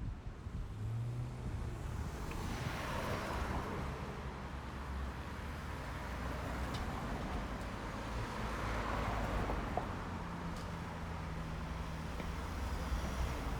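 Road traffic passing: vehicles drive by with tyre and engine noise over a low engine hum, swelling twice, about three seconds in and again around nine seconds in.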